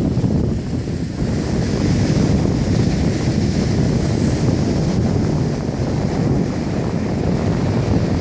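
Strong wind buffeting the microphone, a dense low rumble over the hiss of surf breaking on the beach.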